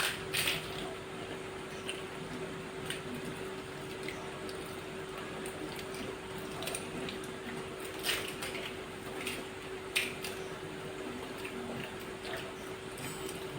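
Fuchka (pani puri) being eaten quickly: scattered short crunches of the crisp shells and wet slurps of the spiced water, over a steady hum.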